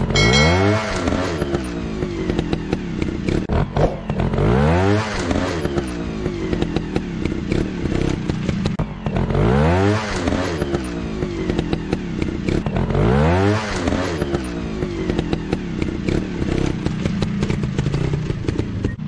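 Trail motorcycle engine revving up hard and dropping back, over and over, about every four seconds, over a steady running note. Clattering runs through it.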